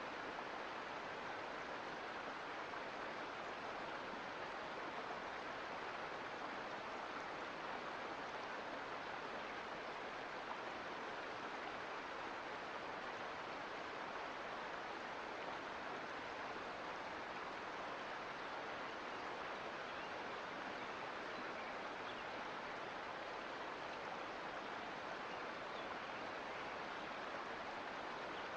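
Mountain creek flowing, a steady, even rush of water over rocks.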